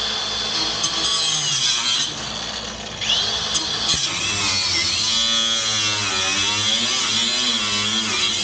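Handheld power cutter running and cutting through the metal of an old exhaust hanger. Its high whine sags in pitch and level about two seconds in, then picks back up and wavers as it bears down.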